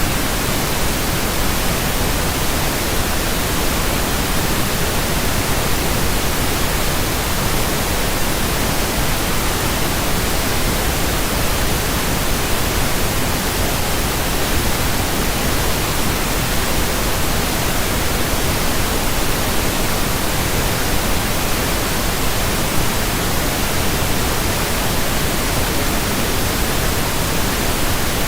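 Steady pink noise, an even hiss spread evenly across low and high pitches that holds unchanged throughout.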